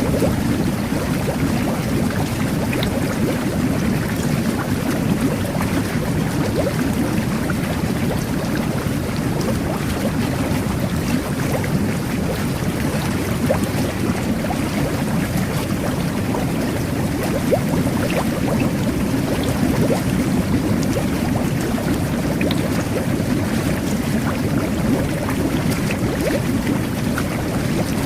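Jet bath (jacuzzi) water churning and bubbling steadily, a dense rumble of bubbles with fine crackling pops.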